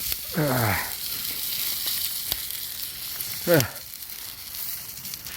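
Steady hissing sizzle over a wood campfire, with a few sharp crackles. Twice a person makes a short vocal sound that falls in pitch, louder than the sizzle.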